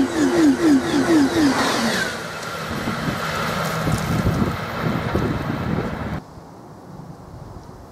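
High-speed electric train passing at speed: a rapid run of falling beats, about four a second, for the first two seconds. Then the tail goes by with a falling whine and the train recedes. About six seconds in the noise drops away suddenly to a low hiss.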